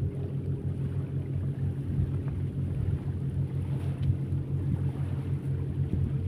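Steady low engine drone, a hum of several even tones with little high-pitched sound.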